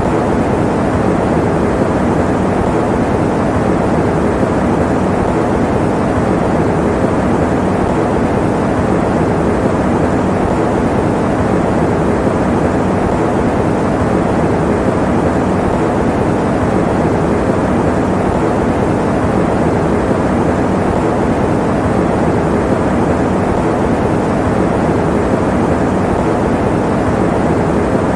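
Electric fan running steadily as white noise: an even, unbroken rushing sound, deep rather than hissy.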